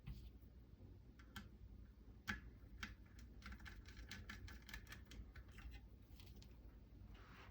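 Faint, light clicks and taps of small metal parts being handled: stainless nut plates, bushings and small hex screws being fitted into a rifle receiver with a hex driver. One sharper click comes a couple of seconds in, then a quick run of small clicks.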